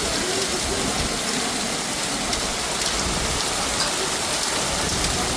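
Hailstorm: hail and rain pelting down steadily, a dense hiss full of many small ticks of stones striking surfaces.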